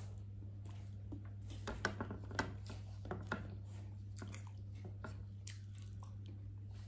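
Close-up chewing and biting of fried chicken, with wet squishy chews and brief crunchy crackles, busiest in the first half, over a steady low electrical hum.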